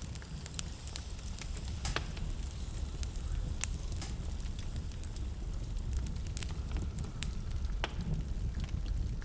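Wood fire crackling in a fireplace: a steady low rumble of the flames with irregular sharp pops and snaps, a few louder ones standing out.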